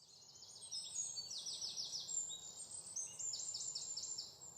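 Songbirds singing in the open: quick runs of high repeated notes from more than one bird, overlapping, over a faint outdoor background.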